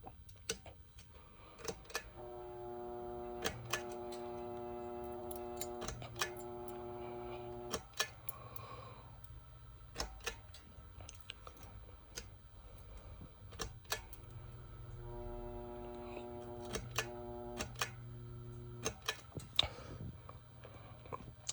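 Hunter Passport III ceiling fan, converted to 4-speed, with its pull-chain speed switch clicking many times as the speeds are cycled. At some speed settings the motor gives off a steady electrical hum of several tones, heard about two to eight seconds in and again around fifteen to nineteen seconds in.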